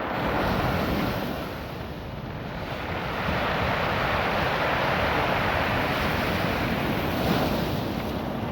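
Ocean surf washing over a beach of small rounded rocks, the stones rattling in the moving water. The wash swells about half a second in and again from about three seconds on.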